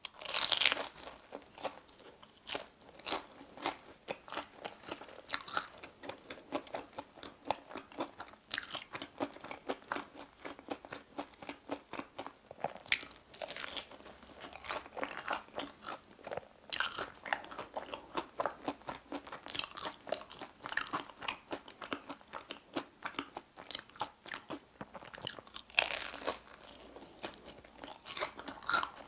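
Close-miked bite into a crispy batter-fried Korean hot dog, a loud crunch right at the start, then steady crunchy chewing, with a few more crunching bites along the way.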